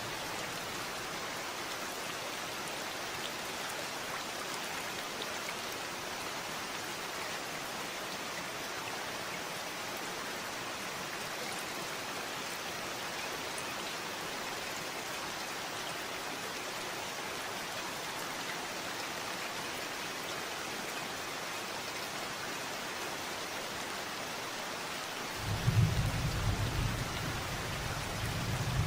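Steady rain falling, an even hiss of drops. Near the end a loud, low rumble of thunder breaks in.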